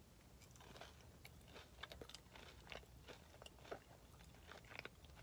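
Faint close-up chewing of a jalapeño popper: soft, irregular crunches and mouth clicks.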